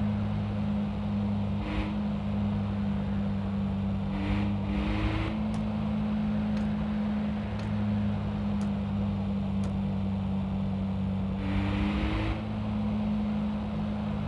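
Steady engine hum and road noise heard inside a moving car's cabin, with a few short whooshes of passing traffic. In the middle, five faint ticks come about once a second.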